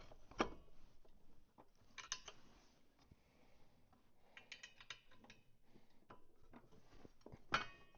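Faint scattered metallic clicks and clatter of a 12mm wrench working the bolt that holds the snowmobile's secondary clutch sheave open while the drive belt is slid on, with a quick run of clicks in the middle and a sharper click near the end.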